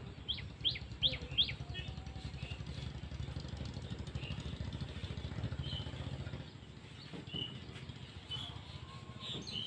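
A bird gives four quick, sharp whistles, each falling in pitch, then scattered chirps follow. Underneath, a low engine rumble runs and stops about six and a half seconds in.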